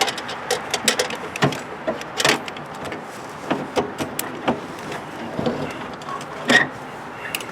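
Irregular clicks, taps and knocks of door lock parts being handled and hooked into place inside a car door, with a louder knock about six and a half seconds in.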